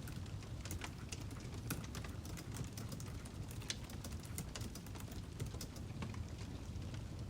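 Wood fire crackling: irregular sharp pops and snaps, some louder than others, over a low steady rumble of burning logs.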